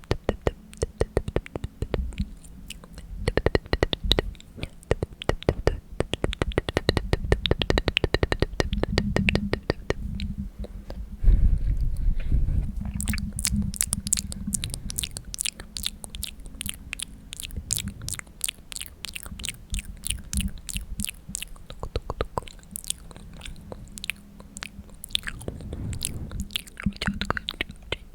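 Close-miked ASMR mouth sounds: wet mouth clicks and smacks in quick, dense succession.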